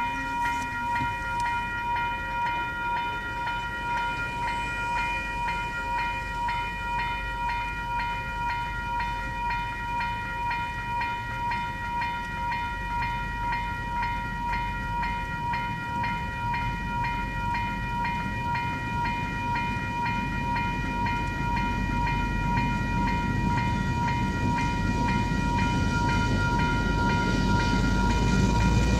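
Level crossing warning bell ringing in a fast, even, repeating rhythm. Over the last several seconds the low rumble of an approaching train grows steadily louder beneath it.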